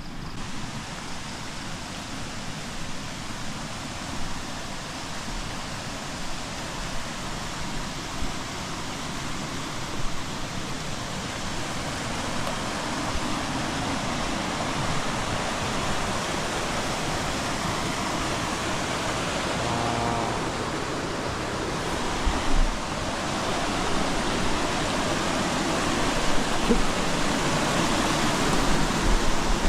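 Rushing water of a small roadside waterfall and rapids, a steady hiss that grows gradually louder.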